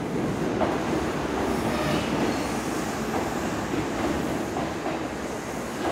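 Kintetsu limited express train running along the platform of an underground station: a steady noise of wheels on rails.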